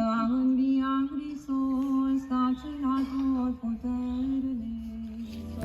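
A single voice singing a slow melody of long held notes that step up and down.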